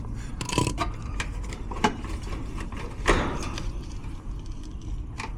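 Scattered clicks and handling noises as wires are pulled off an air-conditioner contactor's terminals, the loudest about three seconds in, over a low steady hum.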